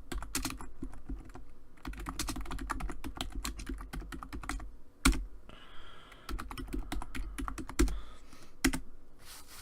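Typing on a computer keyboard in quick runs of key clicks, with a few harder single key strokes between them.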